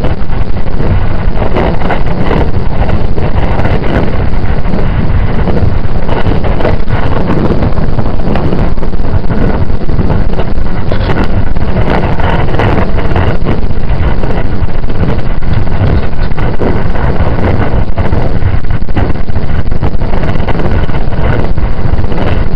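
Running noise of a JR 681 series electric multiple-unit train at speed, heard from inside the passenger car: a loud, steady rumble of wheels on rail mixed with wind noise.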